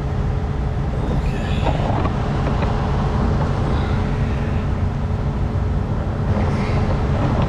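Heavy diesel truck engine idling steadily, a continuous low rumble.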